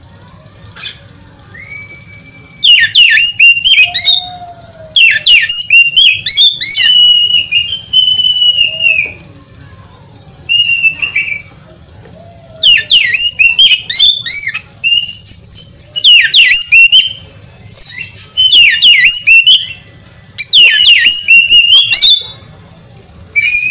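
Oriental magpie-robin singing: loud phrases of rapid, whistled notes and slurs, each lasting a second or two, repeated with short pauses between.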